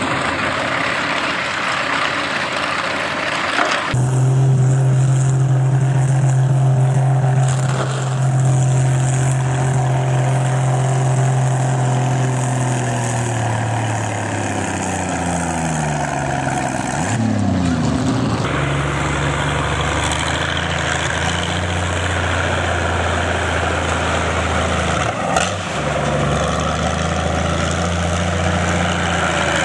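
Heavy tractor engine running loud at a steady high pitch, its note sinking over several seconds as it slows. Another engine then carries on at a lower steady pitch.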